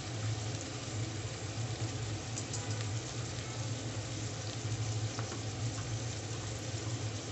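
Bones, onion and green chillies frying in oil in an open pressure cooker: a steady, even sizzle. A steady low hum runs underneath.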